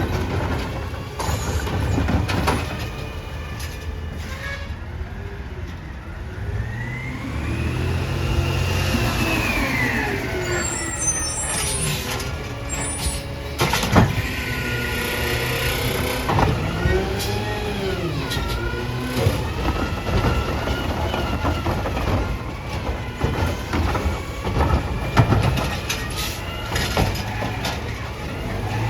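Peterbilt 320 garbage truck running, its engine revving up and falling back a few times, with a sharp clank about halfway through and other short knocks.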